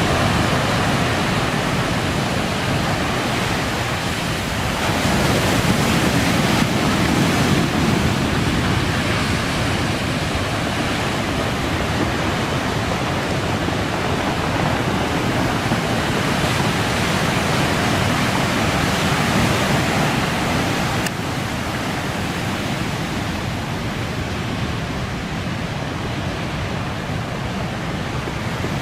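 Storm surf whipped up by a typhoon, heard as a constant rush of breaking waves with strong wind on the microphone. It swells a little several seconds in and steps down slightly in level about two-thirds of the way through.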